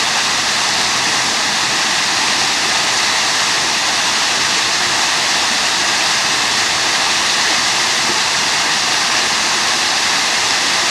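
Boulder waterfall pouring into a swimming pool: a steady, loud rush of falling water splashing onto the pool surface.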